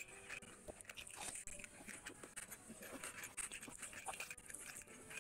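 Close-up eating sounds: wet chewing and lip-smacking of a mouthful of rice and curry eaten by hand, made of many soft, short clicks.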